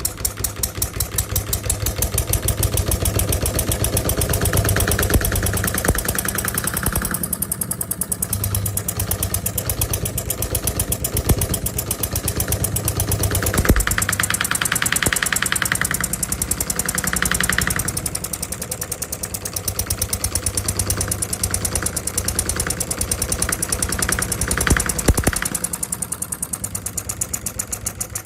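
Stirlingkit D16 model diesel engine running steadily with a rapid, even firing beat. Its tone shifts a few times.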